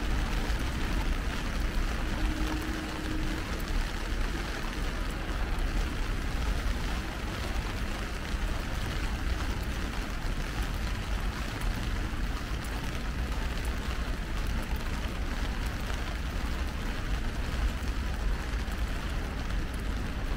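Heavy rain falling steadily on an umbrella, an even patter with a low rumble underneath.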